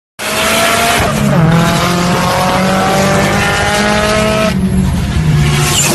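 Car engine accelerating hard, heard from inside the cabin, its pitch rising steadily for a few seconds; the engine note drops away about four and a half seconds in, leaving rushing road and wind noise.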